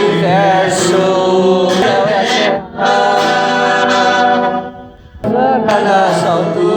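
Unaccompanied voices singing a slow hymn in held notes, with a short break about two and a half seconds in and a longer pause near five seconds.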